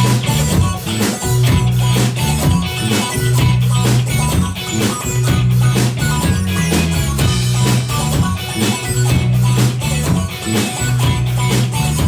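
Rock band playing an instrumental passage: a drum kit keeping a steady beat under a prominent bass guitar line and guitar.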